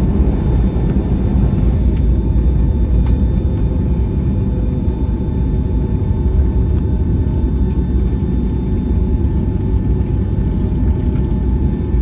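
Cabin noise inside a Boeing 757-200 airliner rolling on the ground after landing: a steady low rumble of engines, airflow and wheels, with a faint steady whine above it.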